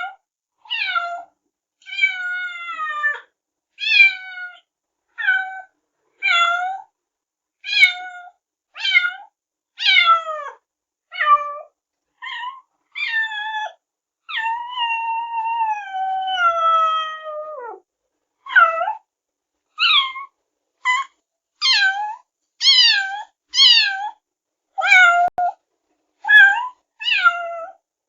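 Kitten meowing over and over, about one short meow a second, each falling in pitch, with one long drawn-out meow about halfway through.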